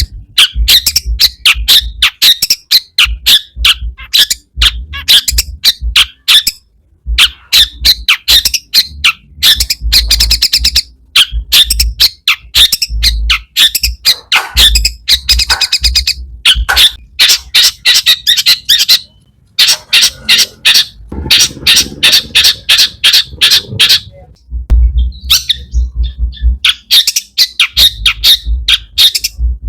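Long-tailed shrike (cendet) singing in a loud, fast stream of short harsh notes and trills, with mimicked calls of other birds worked in, broken by a few brief pauses.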